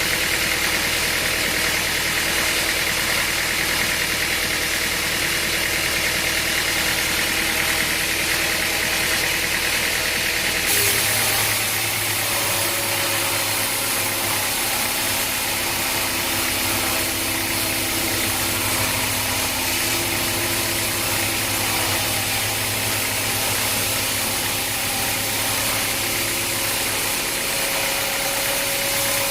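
Sawmill machinery running steadily with an engine-like hum, its tone changing abruptly about eleven seconds in.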